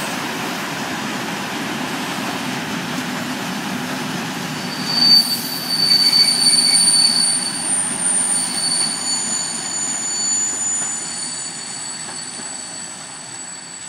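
Freight train of tank wagons rolling past with a steady rumble. From about five seconds in, the wheels squeal in high, thin tones that come and go. The sound fades near the end as the train moves away.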